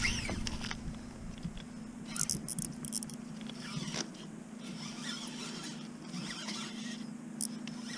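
Fishing reel being wound in while landing a fish, a quiet zipping rasp with short scrapes and rattles about two to three seconds in and again near the end, over a faint steady hum.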